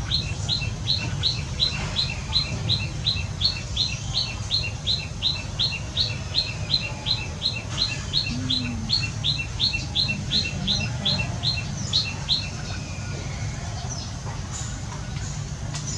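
A bird calling a short, high note over and over, about three times a second, evenly spaced, until it stops about twelve seconds in. A low, steady rumble runs underneath.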